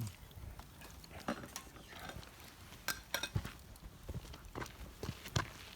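Scattered light clicks and clinks of eating and cooking utensils against dishes and cookware, a dozen or so separate taps.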